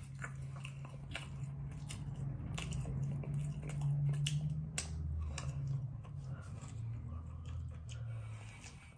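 Close-up chewing and gnawing on a cooked pork rib, with many short, irregular wet mouth clicks and smacks as the meat is pulled off the bone. A low hum runs underneath and drops lower about halfway through.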